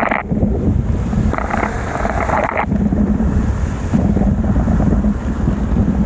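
Wind buffeting the microphone on a bicycle riding through heavy rain, with the hiss of the wet road: a steady low rumble with two louder bursts of hiss in the first three seconds, the second cutting off sharply.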